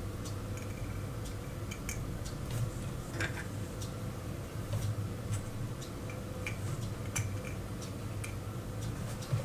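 Small, irregular clicks and taps of watchmaker's tools and watch parts on metal during casing-up of a watch, over a steady low hum.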